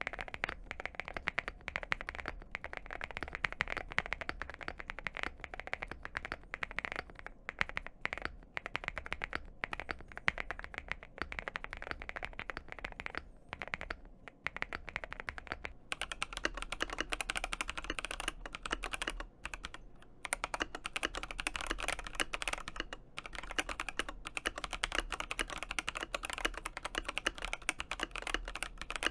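Fast, continuous typing on a mechanical keyboard, a dense stream of keystroke clacks. About halfway through the keystrokes turn brighter and a little louder.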